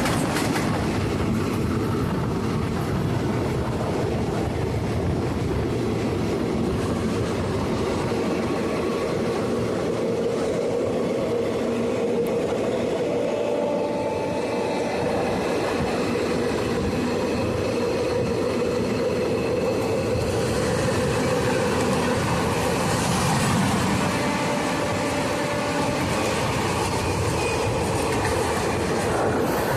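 Passenger train running along the line, a steady rumble and rush of wheels on rails and rattling coaches.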